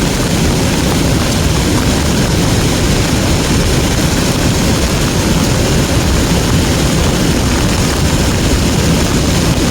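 Steady, loud rushing roar of a Semeru lahar (cold-lava mudflow) flood pouring down the river, mixed with wind buffeting the microphone; the flow is running high.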